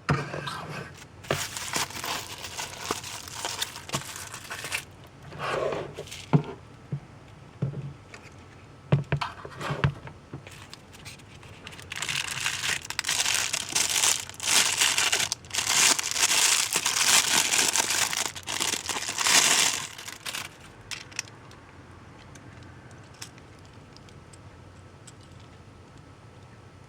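Packaging of a boxed N-gauge model train set being handled and opened: crinkling and tearing in irregular bursts, loudest from about twelve to twenty seconds in. Then it stops, leaving faint room tone with a few light ticks.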